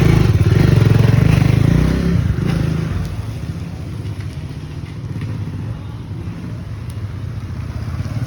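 Motorcycle engine just started, running loud and fast for about two seconds, then settling to a lower, steady idle.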